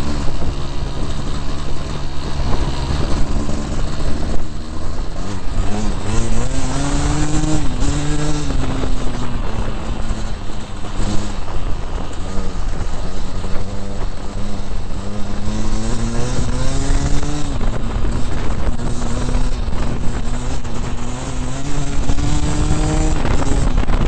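Dirt bike engine being ridden, its pitch climbing slowly and dropping back several times as the rider accelerates and shifts.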